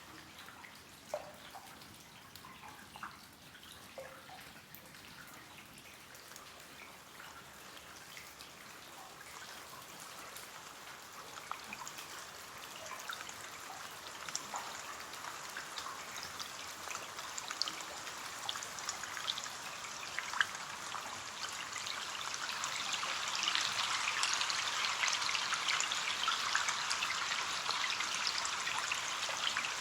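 Rain falling on a window pane: sparse separate drops at first, thickening steadily into denser, louder rain from about halfway through.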